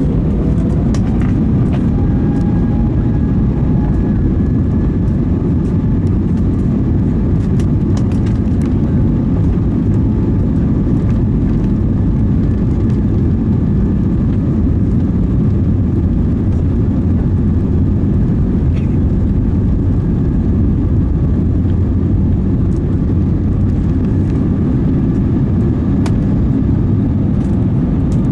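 Inside an Airbus A320neo's passenger cabin, the engines run at high power with rushing airflow: a steady, dense, low-heavy noise through the takeoff and climb-out. A faint rising whine is heard in the first few seconds.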